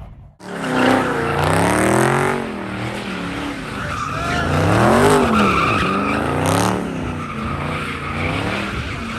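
Car engines revving hard, pitch rising and falling again and again, with tyres squealing as cars spin at a street takeover. It starts suddenly about half a second in.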